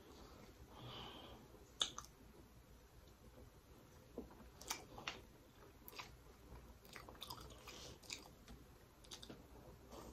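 Quiet close-up eating sounds: chewing with scattered short, sharp wet mouth clicks and smacks.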